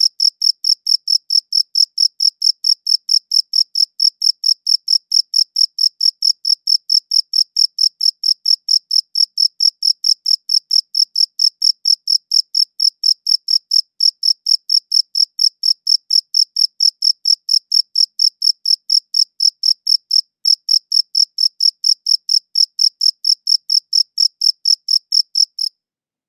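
A cricket chirping in a fast, even train of high-pitched pulses, with a couple of brief breaks, stopping suddenly near the end.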